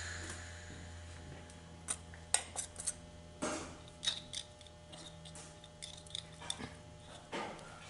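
Small metal transmission parts clinking and tapping as they are handled and set down: a dozen or so light, irregular clicks over a steady low hum.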